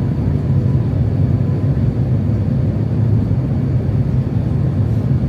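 Steady low rumble of airliner cabin noise inside an Airbus A350-900 on approach: its Rolls-Royce Trent XWB engines and the airflow over the fuselage, with a faint steady hum above the rumble.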